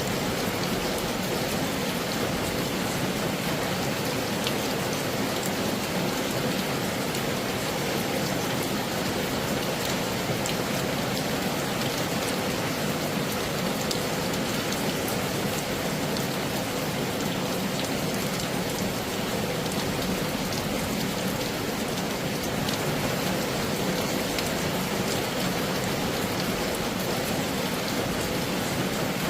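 Heavy rain falling steadily, an even hiss flecked with many sharp hits of individual drops.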